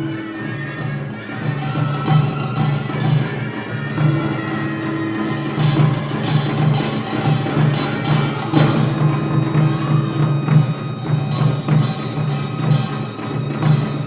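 Korean traditional percussion ensemble playing, with drums keeping a steady pulsing beat and bursts of sharp metallic strikes about halfway through and again near the end. Over them a double-reed wind instrument (piri or taepyeongso) plays held notes that come and go.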